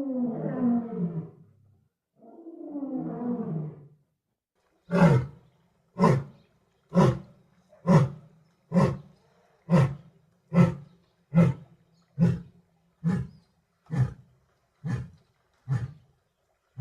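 Lion roaring: two long roars falling in pitch, then a pause and a steady run of about thirteen short grunts, just under one a second, slowly fading, the typical ending of a lion's roaring bout.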